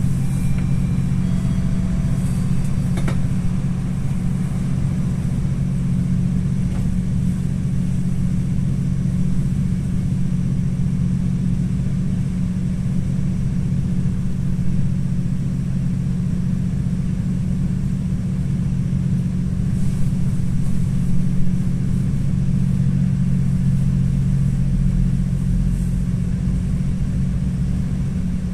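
GO Transit diesel locomotive engine running with a steady low drone as the train departs.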